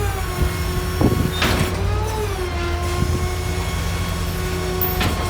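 A vehicle engine running, its tone slowly rising and falling, with a few sharp knocks or clunks: about a second in, again half a second later, and once more near the end.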